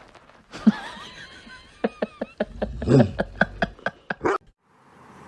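A person laughing in a run of short, rapid bursts, about three or four a second, that stops abruptly near the end.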